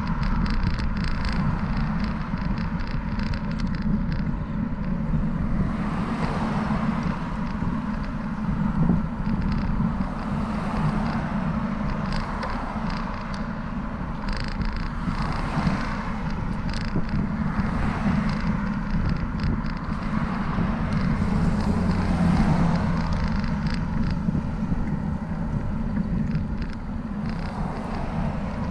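Wind rumbling on the microphone of a moving bicycle, with road traffic noise that swells and fades several times as vehicles pass.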